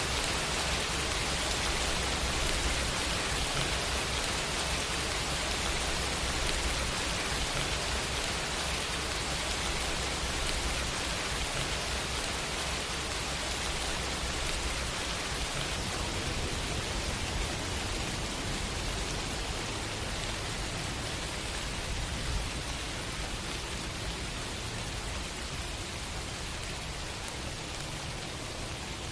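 Steady rain falling, an even hiss with no single drops standing out, easing slightly toward the end.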